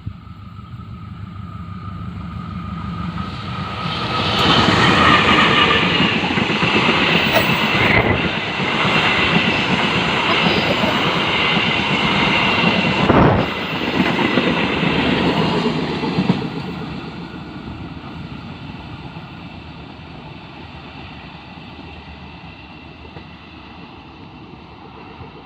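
Train passing at high speed over a level crossing: the rumble and wheel clatter build over the first few seconds, stay loud for about twelve seconds with a couple of sharp knocks, then fade away.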